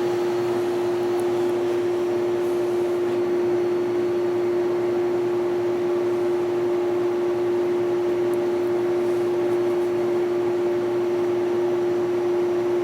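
Window air conditioner running, compressor and fan together: a steady hum with one strong tone over an even rush of fan air.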